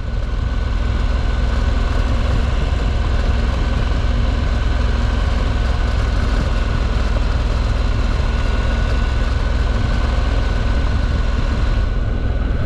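Moto Guzzi V85TT's transverse V-twin engine running steadily under way, with wind rushing over the microphone.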